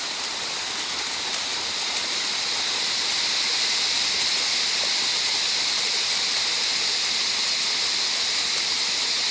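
Steady hiss of a small waterfall running, with insects calling, growing slightly louder about two seconds in.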